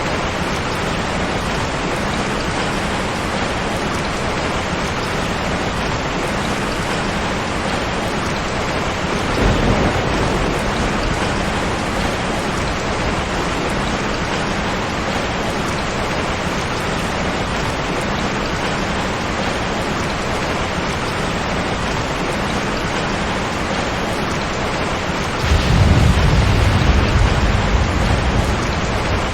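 Steady rain falling, with two low rolls of thunder: a short one about a third of the way in and a longer, louder one near the end.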